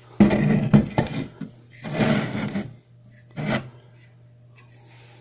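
Handling noise: disassembled microwave parts rubbing and scraping as they are moved about, in three bursts over the first three and a half seconds, the first the longest, over a steady low hum.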